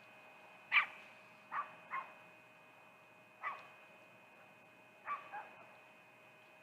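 Six short sharp barks in an irregular rhythm, some in quick pairs, from a canine. They sound over a faint steady high whine.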